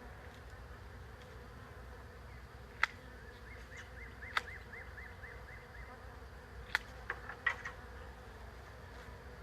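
A swarm of honey bees buzzing steadily in the air around the camera. Several sharp clicks cut through it, and a run of short repeated chirps comes in about halfway through.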